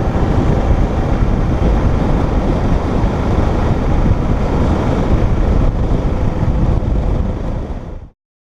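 Motorcycle riding at road speed: wind rushing over the microphone, with the engine running underneath. The sound cuts off abruptly near the end.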